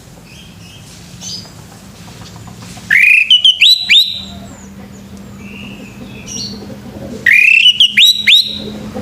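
Male orange-headed thrush singing: two loud whistled phrases about four seconds apart, each opening with a rising note and followed by a few quick sharp notes, with fainter bird notes between them.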